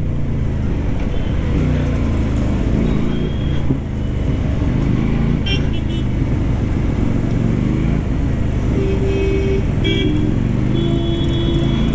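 Keeway Benda V302C's 298 cc V-twin engine running under way in traffic, its pitch rising and falling with the throttle. Near the end two horn blasts sound, the first around nine seconds in and the second held for about a second.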